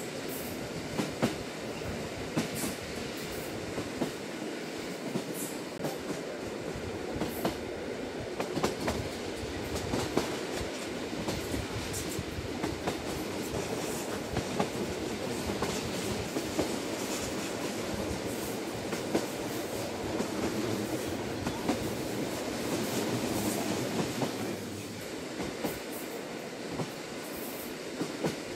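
Interior sound of a JR Hokkaido Lilac limited express train running at speed: a steady rumble of wheels on rail with frequent short clicks over rail joints. The rumble eases slightly near the end.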